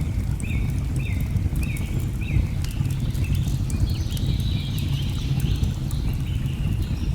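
Layered nature ambience: a deep, steady rush of water under the sharp crackle of a wood fire, with a bird or other jungle creature giving short calls about twice a second. From about four seconds in, a denser chorus of higher calls joins in.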